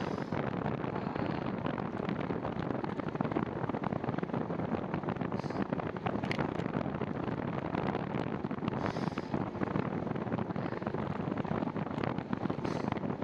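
Steady wind rushing over the camera microphone of a moving bicycle, with a few brief, faint high-pitched sounds on top.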